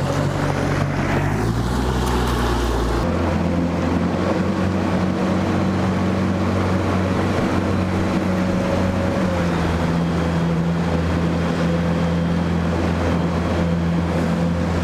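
Boat motor running steadily under way, a constant hum that changes abruptly about three seconds in, with wind on the microphone.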